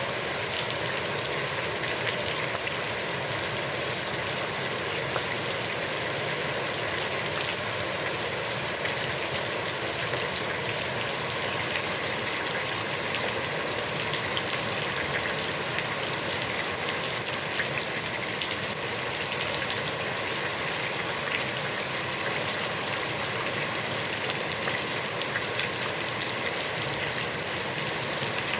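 Heavy rain falling steadily on a pond's water, an even hiss scattered with the patter of individual drops.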